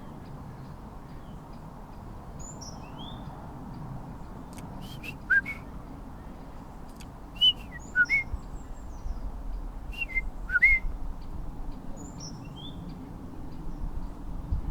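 Birds calling: short whistled chirps, several of them sharply rising, coming in small groups every couple of seconds, over a steady low background hum.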